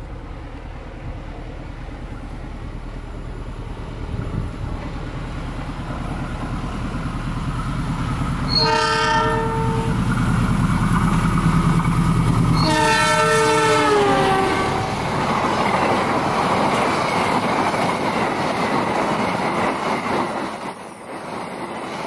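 Diesel-electric locomotive hauling a passenger train at speed, its engine rumble building as it approaches. It sounds two horn blasts about four seconds apart, and the second drops in pitch as the locomotive passes. The carriages then go by with a steady rush of wheel-on-rail noise.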